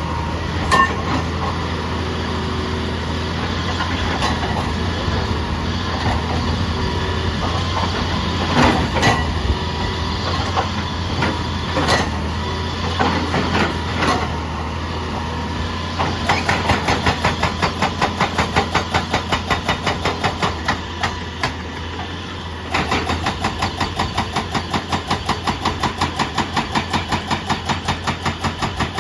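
Heavy diesel machinery running with a steady low drone and scattered knocks. Past the halfway mark a rapid, even pounding starts, about four to five strokes a second; it pauses briefly and then resumes.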